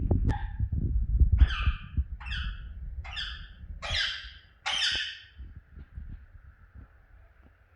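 Pet budgerigar giving a run of five short, harsh squawking calls, one about every 0.8 s, over low thumps and rumble near the start.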